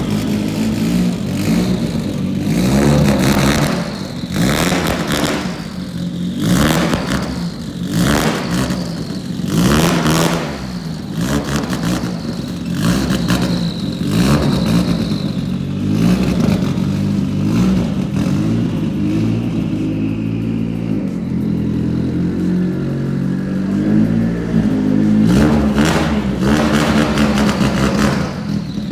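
A vehicle engine running, its pitch rising and falling, with repeated clattering knocks throughout.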